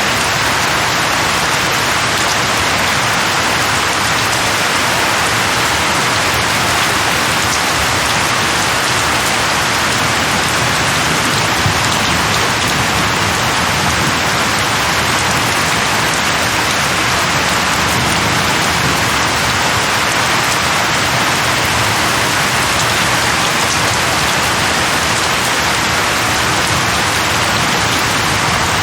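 Steady rain falling and pattering on surfaces, an even hiss without thunder or any other event.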